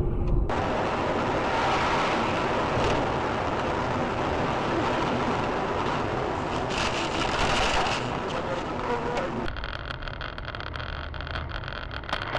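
Car driving: steady road and engine noise heard from a vehicle, with abrupt changes in sound about half a second in and again near the end as the recording switches between clips.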